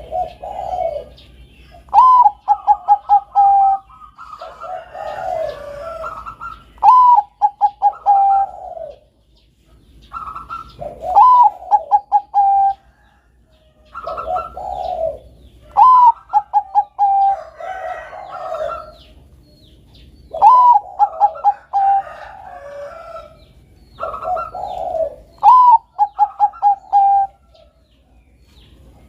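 Bangkok-strain zebra dove (perkutut) cooing, repeating its phrase about every 4 to 5 seconds. Each phrase is an opening note, then a quick run of short clipped notes, then lower trailing coos.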